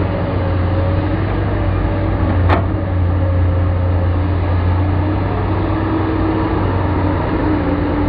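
Heavy diesel engine running steadily with a constant low hum, with one sharp knock about two and a half seconds in.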